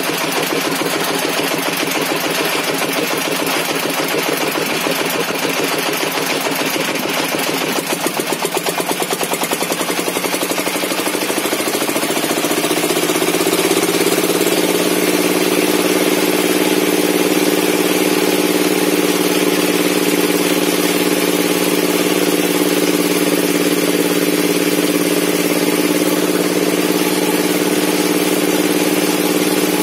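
Engine driving a table-mounted circular saw, running with a fast even pulse at first, then speeding up about eleven seconds in and settling into a steady higher-pitched run.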